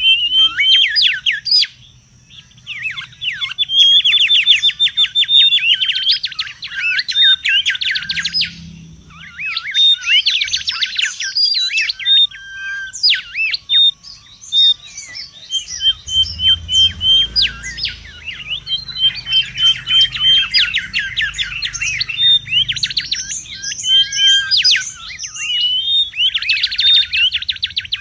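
Mangrove whistler calling in long, rapid runs of sharp sweeping notes, broken by short pauses.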